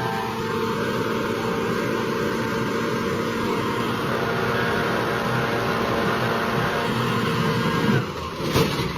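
A vehicle engine running steadily. It breaks off about eight seconds in, with a few knocks.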